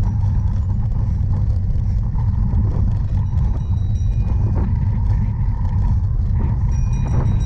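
Steady low rumble of wind buffeting the microphone of a camera riding along on a cyclocross bike during a race.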